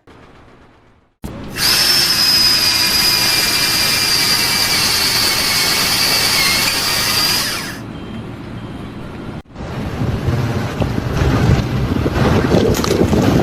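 A power tool running steadily for about six seconds with a high whine, then stopping. After a short break, a rougher, lower mechanical rumble.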